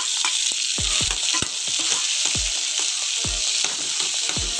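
Chopped vegetables sizzling in ghee in a metal kadai as they are sautéed on a low flame. A steady frying hiss runs throughout, with a spoon scraping and knocking against the metal about once a second as the vegetables are tipped in and stirred.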